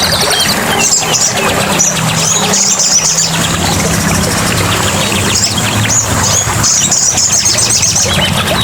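Small songbirds chirping in quick, high repeated trills over a steady background of running water.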